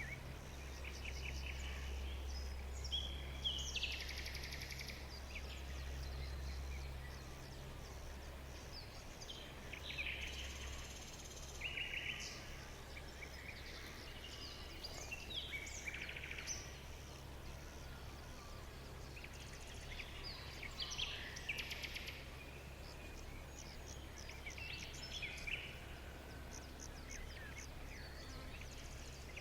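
Several birds chirping and calling in short phrases and trills throughout, over a steady low rumble.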